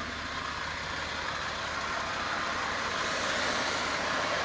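Toyota 1FZ-FE 4.5-litre straight-six running steadily a few minutes after its first start following a full overhaul, growing gradually louder.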